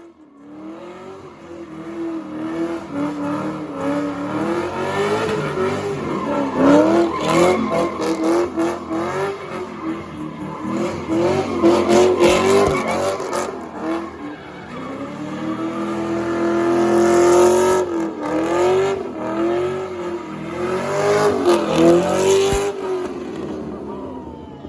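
Car engine held at high revs, its pitch wavering up and down, with tyres squealing as the car spins its wheels in a burnout.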